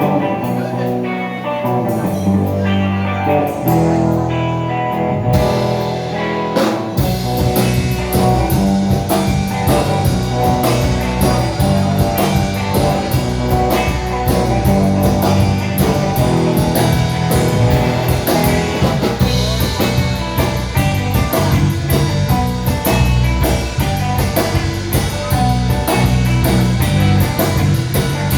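Live rock band playing: a guitar alone at first, then the drum kit and the rest of the band come in about seven seconds in and play on together.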